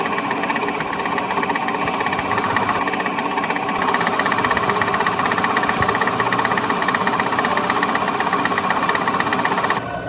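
A workshop machine running steadily with a fast, even rattle; the sound changes abruptly near the end.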